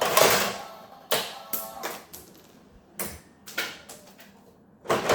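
Plastic toy parts and packaging being handled, with irregular rustles, clicks and taps.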